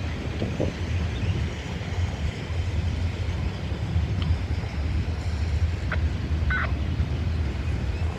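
Freight train rolling past with a steady low rumble and wind on the microphone; a few short squeaks about six seconds in.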